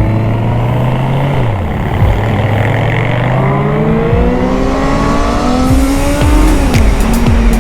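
Motorcycle engine accelerating hard, its pitch climbing steadily with two upshifts, about a second and a half in and near the end. Music with a steady beat comes in during the second half.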